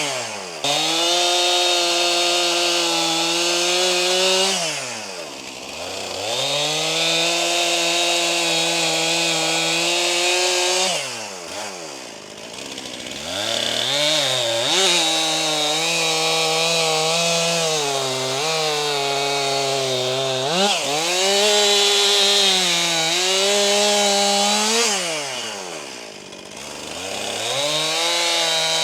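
Brand-new Stihl MS261 C two-stroke chainsaw, being broken in, running at high revs while cutting wood. Several times its pitch drops toward idle and rises again as the throttle is let off and squeezed back on between cuts.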